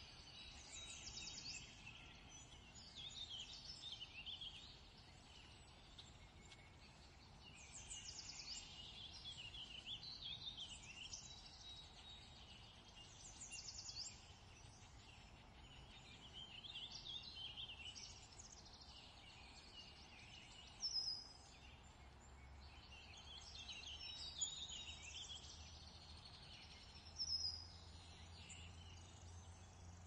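Faint birdsong: small birds chirping and singing in short high phrases every second or two, with three louder calls in the second half.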